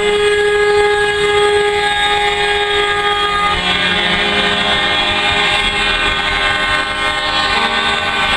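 Lorry air horn sounding one long, steady blast of about three and a half seconds over the running of heavy truck engines.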